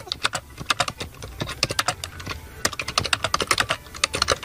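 A rapid, irregular series of sharp clicks and taps, several a second.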